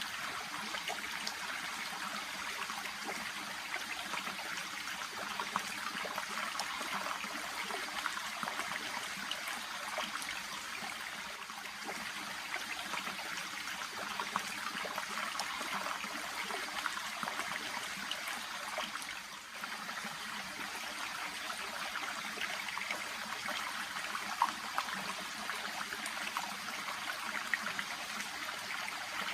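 Shallow, babbling stream running steadily over and around water plants: an even rush of water dotted with small trickles and bubbling, dipping briefly a little past halfway.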